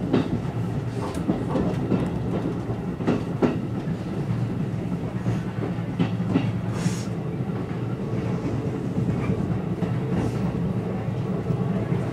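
Seibu 101 series electric train running slowly into a station, heard from the cab: a steady low running hum, with pairs of wheel clacks over rail joints and points about a second, three seconds and six seconds in. A short hiss comes about seven seconds in.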